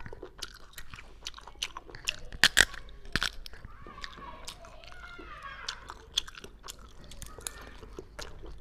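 Close-miked wet chewing and mouth smacking while eating braised sea snails: a quick run of sharp clicks and smacks, loudest about two and a half to three seconds in.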